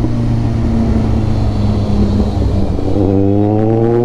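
Kawasaki Ninja 1000's inline-four engine through an Austin Racing full-system exhaust, running loud at a steady note, then rising in pitch as it accelerates about three seconds in.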